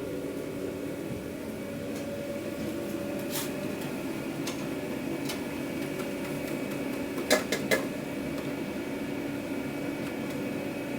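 Steady hum of food-truck kitchen equipment with several fixed tones. A sharp click comes about three seconds in, and a quick run of three sharp knocks, the loudest sounds, about seven seconds in.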